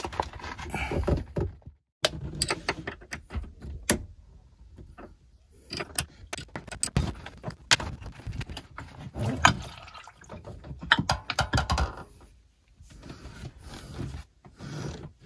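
Scattered metallic clinks, clicks and knocks of a tool and hands working at the bleed screw of a diesel fuel pre-filter, loosening it to drain the filter.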